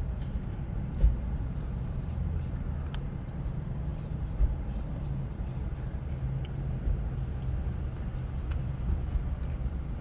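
Steady low motor hum, with a soft thump about a second in, another a few seconds later, and scattered light clicks.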